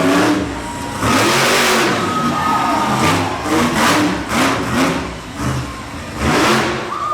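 Monster truck Hooked's engine revving hard in several surges, the pitch climbing and falling with each blip of the throttle as the truck gets ready to launch.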